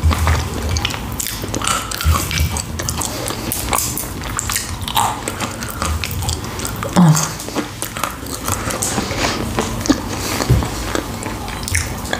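Close-miked biting and chewing of a hot toasted sandwich, many small sharp crisp clicks and mouth sounds following one another.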